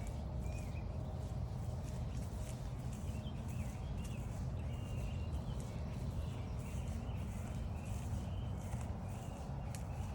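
Footsteps swishing along a grassy trail, with birds singing short repeated phrases throughout and a steady low rumble underneath.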